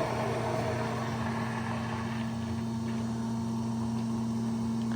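Submersible electric utility pump running steadily, circulating hot distilled vinegar through a tankless water heater to flush out scale: a constant low hum over an even hiss of flowing liquid.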